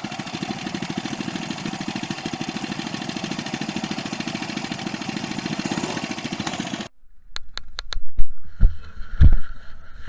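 Small minibike engine running steadily with a fast, even pulse, a bike that had just been said to run as if choked. It cuts off abruptly about seven seconds in, followed by a few sharp clicks and two heavy thumps.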